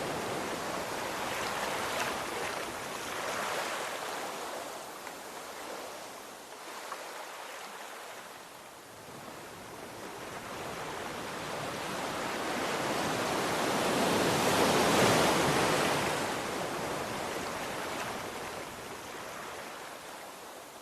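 Ocean waves washing on a shore, a steady wash of surf that ebbs through the first several seconds, swells to a peak about two-thirds of the way through, then falls away again.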